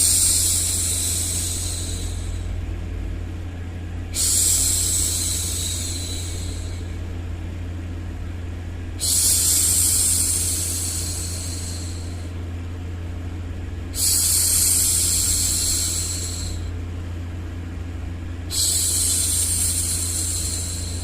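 A woman's voice shushing 'shhh' five times, each shush about two and a half seconds long and fading out, one roughly every five seconds. Underneath runs a steady, low white-noise hum.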